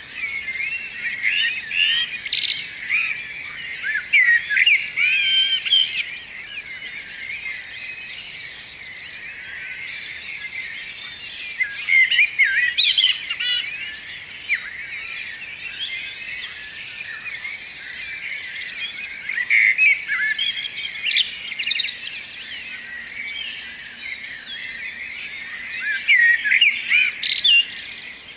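Morning chorus of several songbirds singing at once: a dense run of quick chirps and warbling trills, swelling into louder bursts of song every several seconds.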